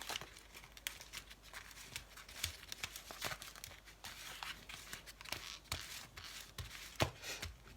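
Buttered digestive-biscuit crumbs being pressed down into a container to form a tart base: faint, irregular crunchy scrapes and light clicks.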